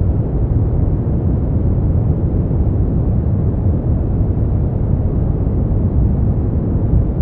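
Steady brown noise: an even, deep hiss with most of its weight in the bass, thinning out toward the treble.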